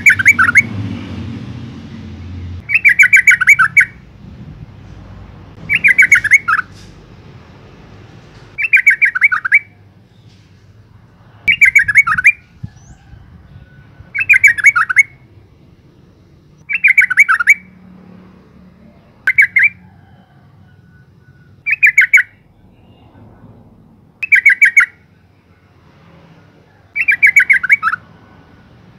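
Female yellow-vented bulbul calling to males: a short, rapid chattering phrase about a second long, repeated every two and a half to three seconds.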